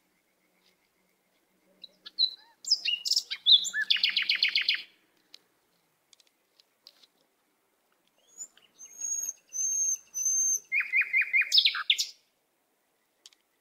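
Bird calls: a quick run of chirps a few seconds in, three high clear notes near the middle, then another rapid run of notes near the end, with silent gaps between.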